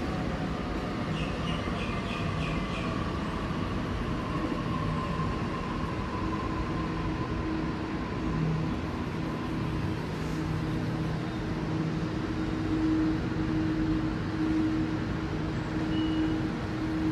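Electric suburban train running, with a steady rumble and hum and a motor whine that falls slowly in pitch over the first ten seconds. A couple of short high beeps sound near the end.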